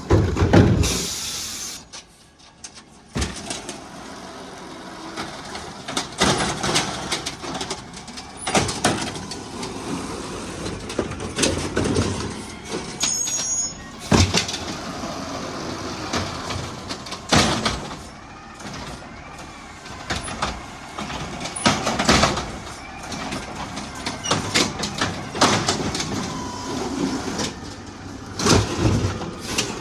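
Garbage truck at work: its engine running under repeated sharp clanks and bangs every second or two, with a short quieter lull about two seconds in.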